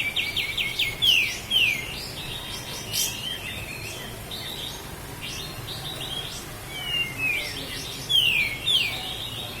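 A kapas tembak songbird singing in phrases of quick runs of short notes and sharp downward-sliding whistles, with louder phrases about a second in and again near the end.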